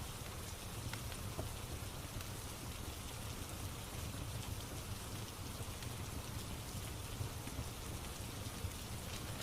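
Steady rain falling, mixed with a crackling fireplace; a few faint pops from the fire.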